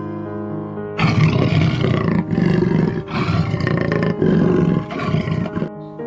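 A large animal's loud, rough roaring call in about five bursts, starting about a second in, over soft background music with steady held notes.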